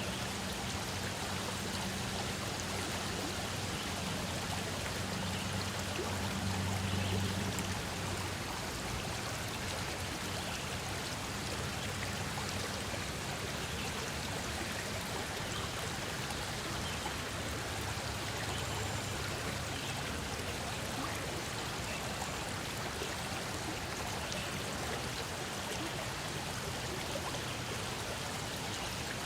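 Stream water flowing and splashing in a steady rush, with a low hum underneath for the first eight seconds or so.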